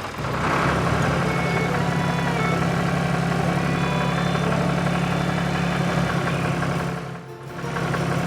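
Tractor engine sound effect running steadily at a low, even idle. It dips out briefly near the end, then comes back.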